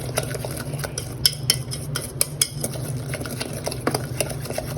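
A utensil stirring a thick curd, spice and egg marinade in a bowl, with irregular clicks as it strikes the sides. A steady low hum runs underneath.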